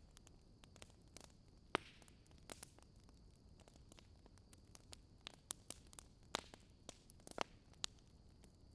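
Wood fire crackling faintly: irregular sharp pops and snaps over a low hiss, with a steady faint high tone underneath.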